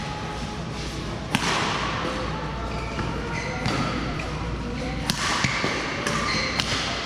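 Badminton rally in a sports hall: rackets striking a shuttlecock in sharp cracks a second or more apart, with several close together near the end, over background chatter.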